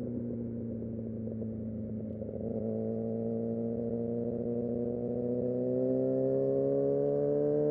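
Kawasaki Ninja ZX-6R's inline-four engine running at steady revs, heard from the rider's position. It roughens briefly about two seconds in, then the pitch climbs slowly through the second half as the revs build.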